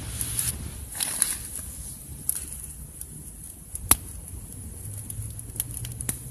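Wood campfire crackling, with irregular sharp pops, the loudest about four seconds in.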